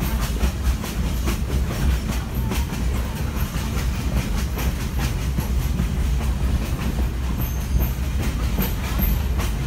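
Railroad passenger car rolling along the track, heard from on board: a steady low rumble of the wheels on the rails with frequent clicks and clacks over the rail joints.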